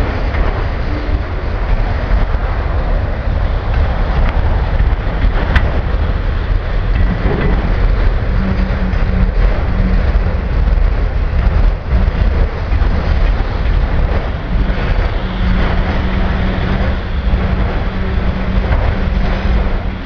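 Train of autorack freight cars rolling past: a steady, heavy rumble, with a faint low hum joining about eight seconds in and again from about fifteen seconds.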